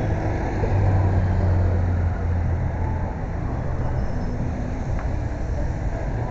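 Steady low rumble of road and traffic noise heard from a moving bike on city streets, a little louder in the first two seconds.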